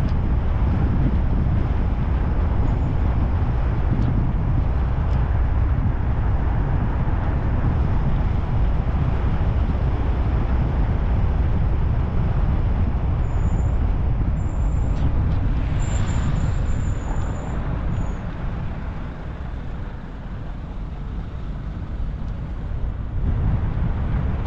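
Car driving on a mountain road: a steady low rumble of engine and tyres that eases off for a few seconds about three quarters of the way through, then picks up again.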